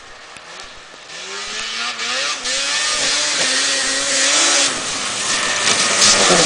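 1979 Ski-Doo Blizzard 7500 Plus snowmobile's two-stroke engine running under throttle as the machine comes closer, growing steadily louder. The pitch rises over the first few seconds, holds, dips briefly just before the fifth second, and climbs again near the end.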